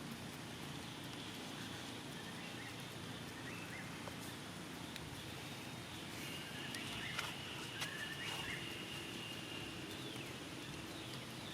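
Outdoor ambience: a steady hiss with faint short rising chirps, a thin high tone held for a few seconds past the middle, and a few sharp clicks.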